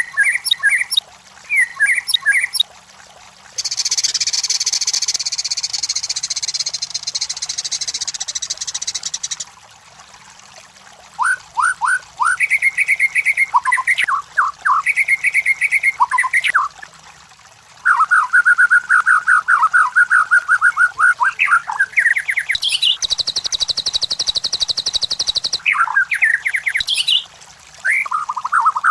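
White-rumped shama singing a varied song: clear whistled phrases and quick runs of repeated notes, broken twice by a long harsh buzzing rattle, the first lasting several seconds.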